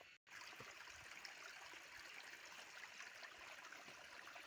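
Faint, steady stream water flowing and trickling, with a click and a brief dropout at the very start.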